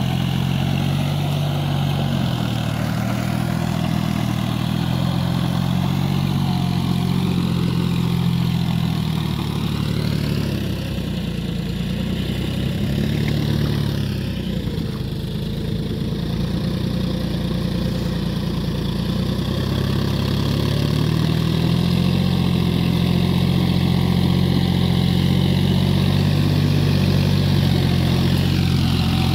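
John Deere 5045D tractor's three-cylinder diesel engine running steadily while working through deep mud. Its note wavers and drops in the middle, then settles back to a steady pitch.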